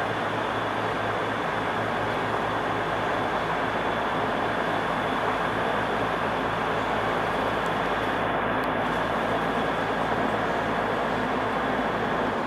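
Steady mechanical drone of engines and traffic, with a low pulsing hum and a faint high whine running under an even rushing noise.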